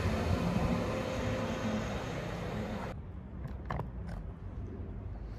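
Diesel multiple unit train running on the line, a steady engine drone with wheel and rail noise. About three seconds in the sound cuts off abruptly, leaving a low rumble and a few sharp clicks.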